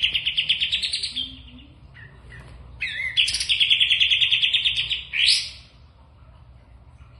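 A songbird singing two fast, buzzy trilled phrases: the first fades out about a second in, the second runs from about three to five seconds in and ends in a short upward sweep.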